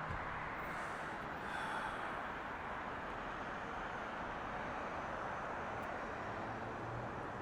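Steady rushing noise, even in level throughout.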